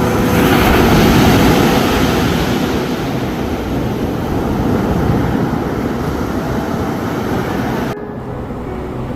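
Ocean surf: a wave breaks and washes in during the first two seconds, then a steady rumbling wash follows. The higher hiss drops away abruptly about eight seconds in.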